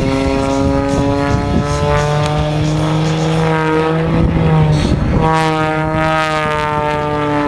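Propeller airplane engine running hard during an aerobatic display, its note sliding up and down in pitch. About five seconds in it breaks off briefly, then comes back higher and slides slowly down.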